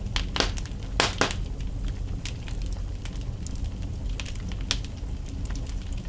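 Wood fire burning in a fireplace, crackling with scattered sharp pops over a low steady rumble; a quick cluster of louder pops about a second in.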